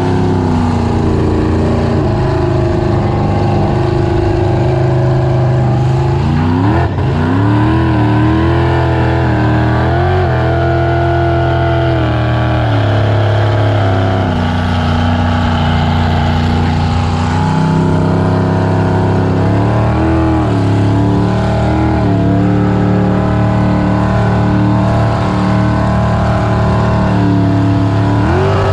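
Supercharged V8 inboard engine of a 19 ft Tahiti jet boat running underway, its pitch holding steady for stretches and rising and falling as the throttle changes, with a quick rev-up about seven seconds in.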